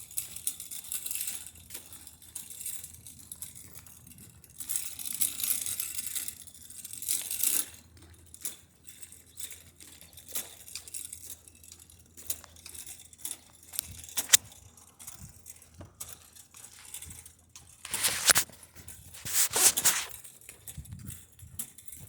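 Bursts of rustling, scraping noise with scattered sharp clicks, loudest in several stretches of a second or two each.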